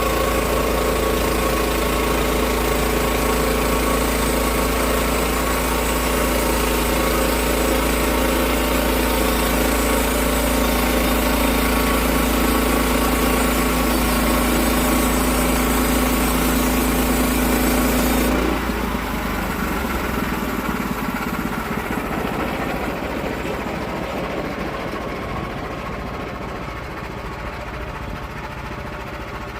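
Gas engine of a log-milling saw running steadily at one constant pitch. About eighteen seconds in the sound changes suddenly: the steady pitch drops out and a quieter, rougher running sound fades away.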